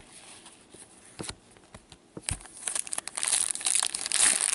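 A few light clicks, then from about halfway in the crinkly foil wrapper of a hockey card pack being torn open and crumpled.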